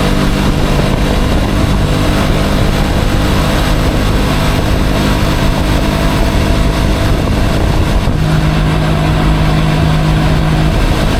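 Motorcycle engine running steadily under way, under a loud, even rush of noise. A steadier low hum holds for a couple of seconds near the end.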